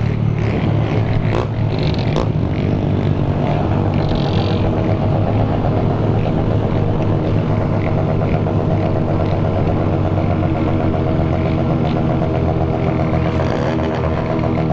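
Motorcycle engines running steadily at a low, even pitch, with a few sharp clicks in the first couple of seconds.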